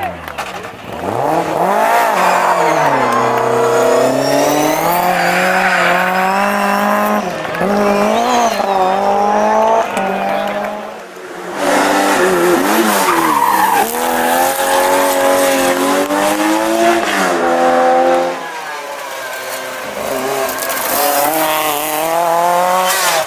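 Historic rally cars driven hard on a stage, their engines revving up and falling back through gear changes, with tyre squeal. One car fades about eleven seconds in and the next arrives straight after.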